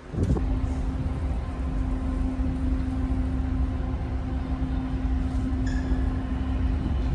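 Steady low engine rumble of a moving vessel with a constant drone that sets in just after the start, mixed with wind on the microphone.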